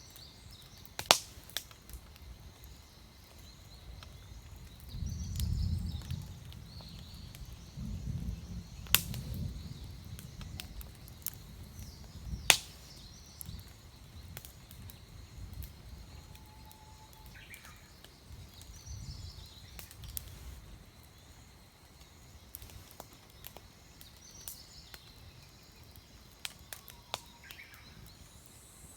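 Wood campfire crackling with a few sharp pops, under low rumbles of distant thunder that swell three times, with small birds chirping now and then.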